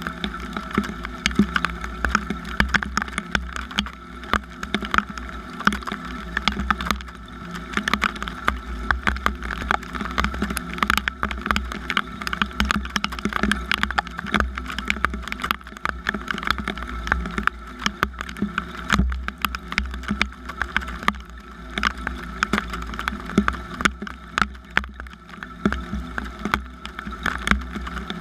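Rain falling: a dense, irregular spatter of drops striking close by, over a steady low rumble.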